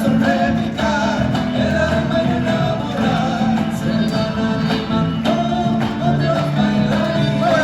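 Live Argentine folk music: a gato sung by a man with instrumental accompaniment.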